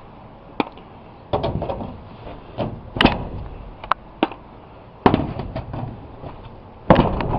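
Loose old nails being worked out of aluminum garage paneling: a string of about eight sharp knocks and clanks at uneven intervals, the loudest near the end.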